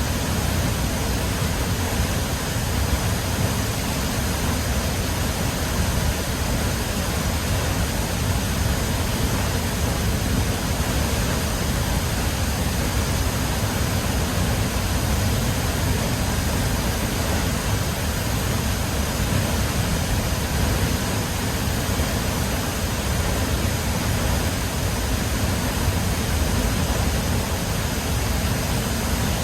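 Large waterfall crashing steadily into its plunge pool, a constant rushing noise with a deep rumble underneath.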